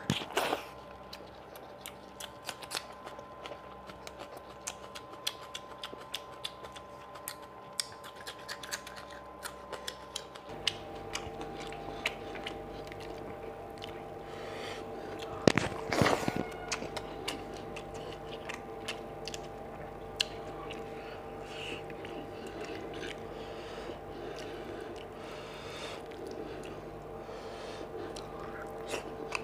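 Close-up eating sounds of rice and fish curry eaten by hand: wet chewing, lip smacks and mouth clicks, with the squish of the hand mixing rice in the curry. There is a louder burst of these sounds about sixteen seconds in, over a steady background hum that shifts in pitch about ten seconds in.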